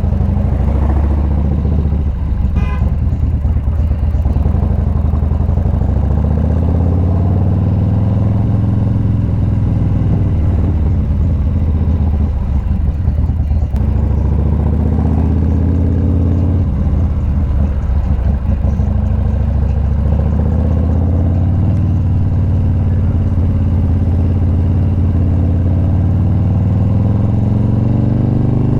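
Motorcycle engine running under way, its pitch climbing several times as it accelerates and dropping back at each gear change.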